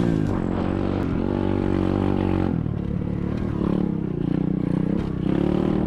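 SSR 125cc dirt bike's single-cylinder four-stroke engine running under way, its pitch dropping and rising as the throttle is eased off and opened again.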